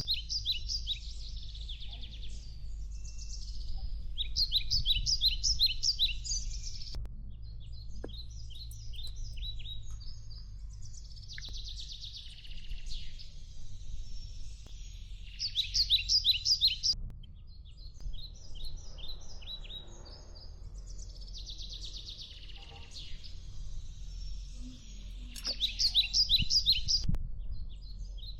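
Songbirds singing: repeated phrases of quick, high chirps every few seconds, over a steady low rumble.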